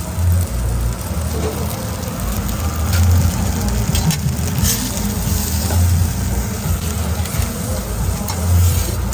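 Food sizzling as it fries in a food truck kitchen, with a low thump about every three seconds underneath.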